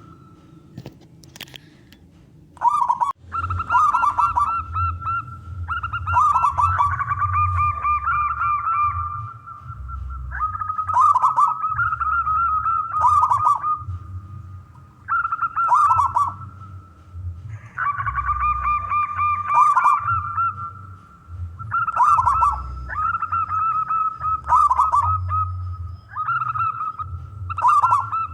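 Male zebra dove (perkutut) singing: rapid rolling coo phrases, each a quick stutter of notes dropping in pitch, repeated every two to three seconds. The song starts about three seconds in, after a few faint clicks, over a low background rumble.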